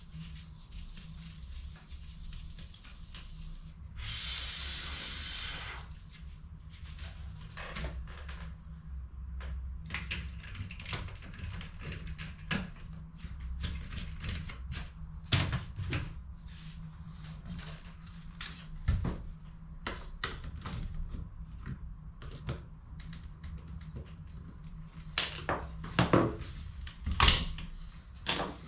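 Plastic clicks, taps and knocks from an HP CE285A toner cartridge being taken apart and handled during refilling, with a brief hiss about four seconds in, over a steady low hum.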